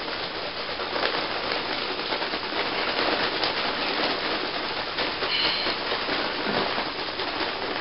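A steady, scratchy noise with no pitch, like a tool scraping or rubbing on a hard surface.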